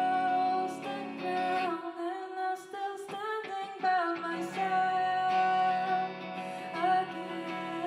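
Live band music: a singer holding long, drawn-out notes, sliding up into each one, over guitar.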